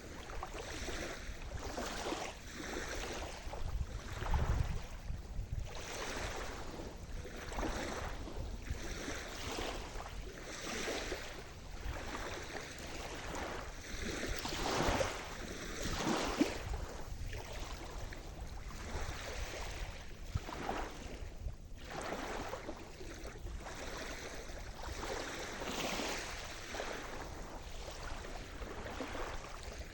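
Sea surf: small waves breaking and washing in one after another, with a low rumble under the hiss of the water.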